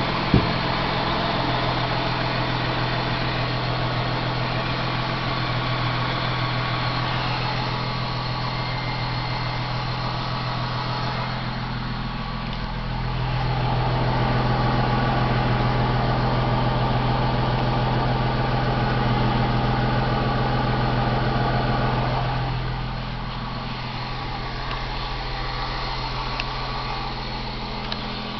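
2003 Ford Mustang's 3.8-litre V6 idling steadily, louder for a stretch in the middle, with a tick that sounds like another exhaust leak or an engine tick. The owner places it on the passenger side near the firewall, repeating each time a certain spot goes around, like a lapping.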